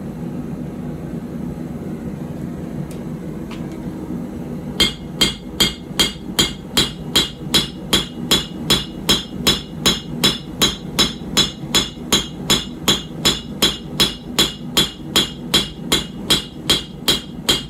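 Hand forging hammer striking a hot puukko knife blade on an anvil: a steady run of blows, about three a second, starting about five seconds in, each with a bright ring. A steady low hum runs underneath.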